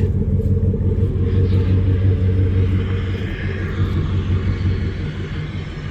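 Pickup truck engine idling through an aftermarket Rough Country exhaust, a steady low rumble.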